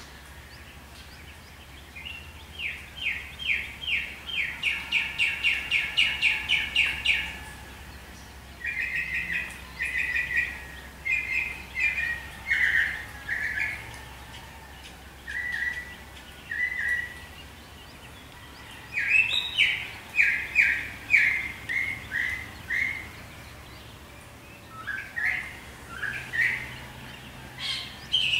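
Birds singing: runs of short, quickly repeated chirping notes, the longest a series of about four notes a second lasting some five seconds, then shorter phrases with quieter gaps between.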